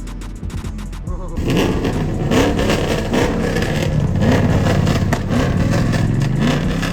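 Car engines revving and accelerating, quieter at first and loud from about a second and a half in, with repeated short rises in pitch.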